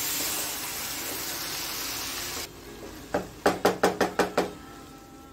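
Mutton fry sizzling in a hot pan as it is stirred with a spatula. The sizzle cuts off suddenly about two and a half seconds in. About seven quick ringing knocks follow, about five a second: the spatula knocking against the pan.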